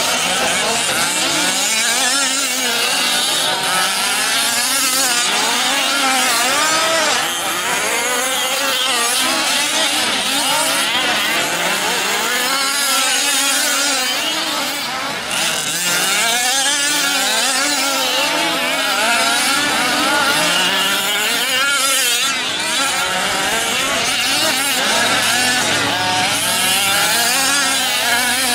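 Several 1/5-scale 4WD RC race trucks' small two-stroke gasoline engines, revving up and down constantly as they race, their pitches overlapping.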